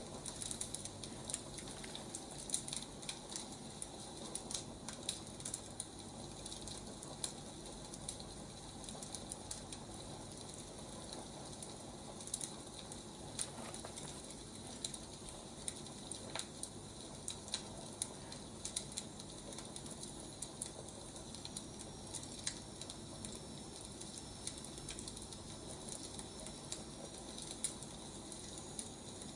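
Burning firewood crackling: irregular sharp pops and snaps over a steady hiss.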